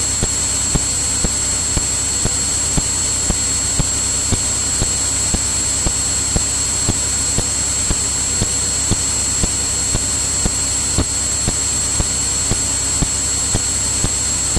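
Steady cockpit drone of a Cirrus single-engine piston plane in cruise, heard through the intercom/radio audio, with a thin steady high whine and faint regular clicks about twice a second.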